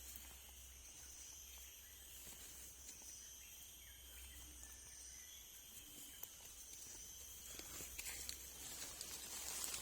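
Faint insect chorus: steady high-pitched shrilling on several pitches, with a low rumble underneath and a few brief rustles near the end.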